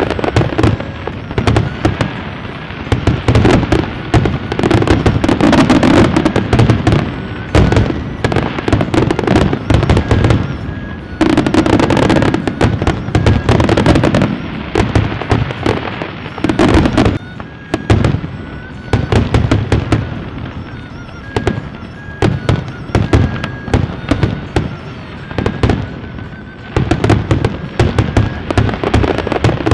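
Fireworks display: a rapid, near-continuous barrage of bangs and crackles, with a brief lull about two-thirds of the way through.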